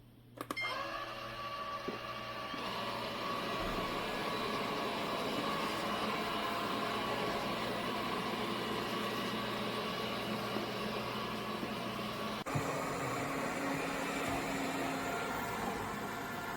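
Airzeen R7 robot vacuum running: a steady motor and brush whir, with a single click about twelve seconds in.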